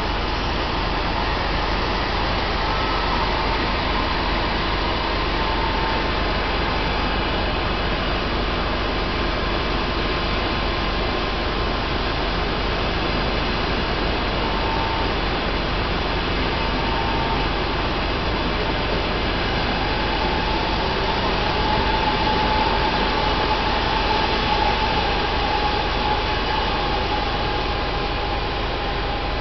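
Trenitalia Frecciarossa high-speed electric train running past on the station tracks: a steady rush and rumble of the carriages on the rails. A faint whine comes and goes and is strongest in the last third, as the sound swells slightly.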